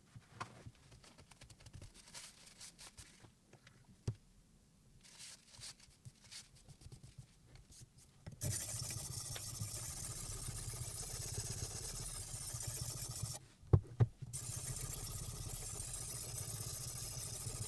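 Faint, scattered scraping and handling sounds. Then, about eight seconds in, a steady whirring, whooshing noise of a small electric appliance starts. About halfway through it cuts out briefly between two sharp clicks, like a switch turned off and on, and then runs on.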